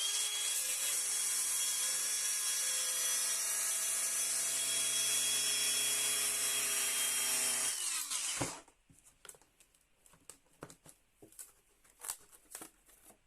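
Hilti AG125 22-volt cordless angle grinder running at a steady whine while scoring a line along a sheet of perspex. About eight seconds in it is switched off and spins down with a falling pitch. Then a few faint taps and clicks follow.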